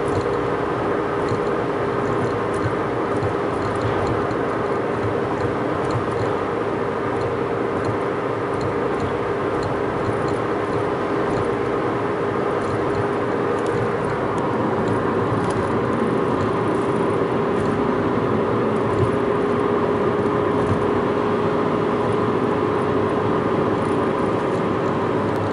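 Steady road and engine drone inside a moving vehicle's cabin, with a constant hum.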